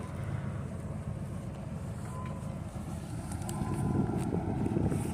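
A car engine running with a low, steady rumble that grows a little louder near the end.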